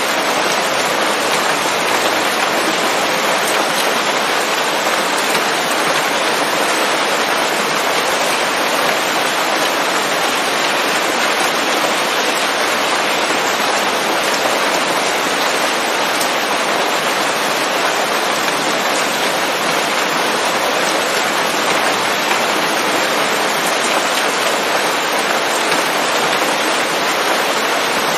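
Steady rain falling on leaves, an even hiss of many drops with no breaks or thunder.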